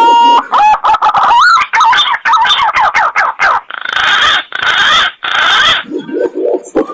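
Pigeon lure-call recording: whistled, gliding and warbling notes and a quick run of chirps, then three harsh rasping notes of about half a second each.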